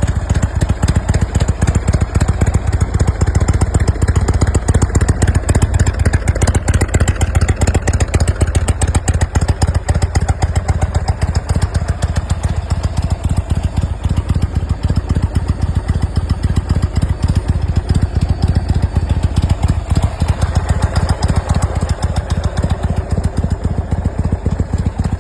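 Motorcycle V-twin engine running steadily, a rapid even train of firing pulses with a strong low rumble, from a 2019 Indian Roadmaster Elite touring bike.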